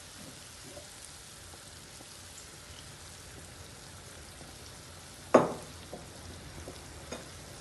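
Chicken mince frying in a pan with a faint, steady sizzle. A single sharp knock about five seconds in is the loudest sound, followed by a couple of lighter knocks.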